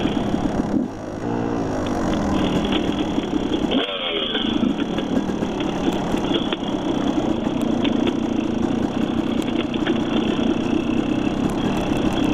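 Dirt bike engine running under load on a trail ride. The revs drop and climb back about a second in and again about four seconds in, as the throttle is eased and reopened.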